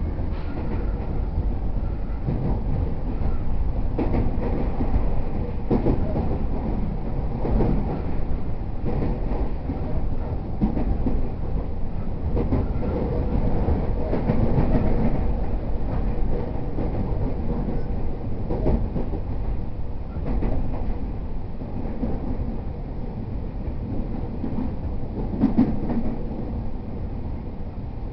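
Cabin running noise of a JR East E231-0 series commuter train under way: a steady low rumble of wheels on rail, with occasional clacks over rail joints.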